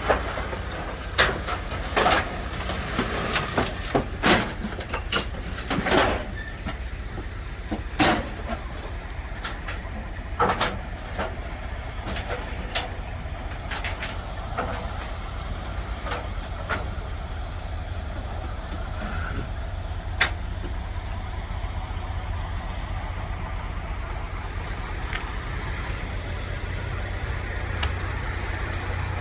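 A vehicle engine idling steadily, with a run of sharp metallic clanks and knocks that come thick in the first ten seconds and only now and then after.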